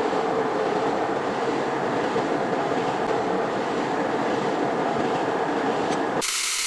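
Metal lathe running with a steady machine noise. About six seconds in, the sound cuts abruptly to a steady high hiss.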